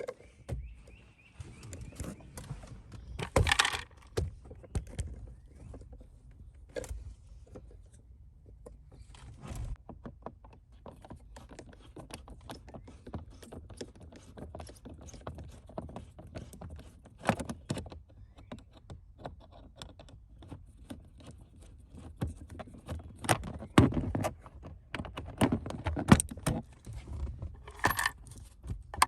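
Irregular small metallic clinks and knocks of hand tools and loose metal parts being handled, with a few louder clanks scattered through.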